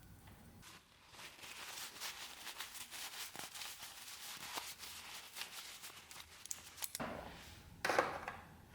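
Rapid, scratchy strokes of hand work on an object, with a louder, sharper scrape near the end.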